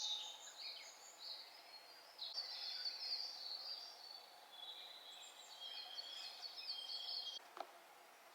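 Songbirds singing, with many short, high chirps and trills overlapping.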